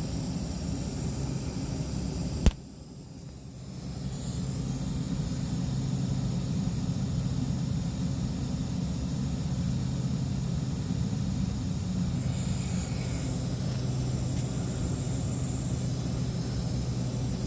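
A single sharp snap about two and a half seconds in, the handle of a Speed Plug tire plug being snapped off in the puncture, over a steady low mechanical hum and hiss.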